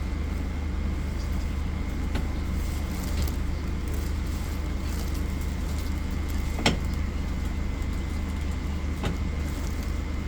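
Steady low rumble of the Gaya Baru Malam Selatan passenger train on the move, with a faint high hum and a few sharp clicks, the loudest about two-thirds of the way through.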